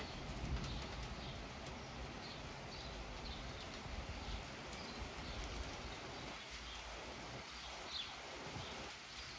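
Thunderstorm ambience: a steady rushing noise with a low rumble that eases after the first few seconds, and a small bird chirping briefly several times.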